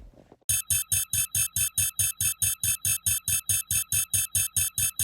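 A phone ringtone: one bright synthesized note pulses rapidly and evenly, about five times a second, as the outgoing call rings. It starts about half a second in and cuts off abruptly at the end.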